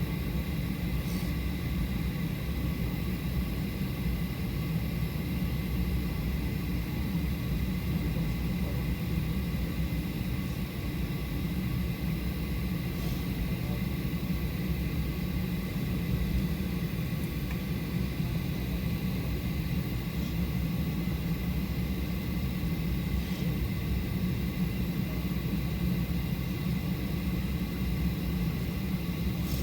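Steady cabin rumble inside a Boeing 737-800 on the ground after landing, with a thin, steady high whine over it.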